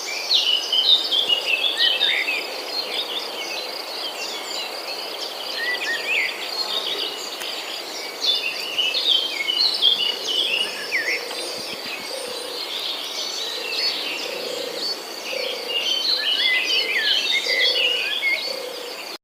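Many small birds chirping and twittering together in a dense, continuous chorus of short overlapping calls.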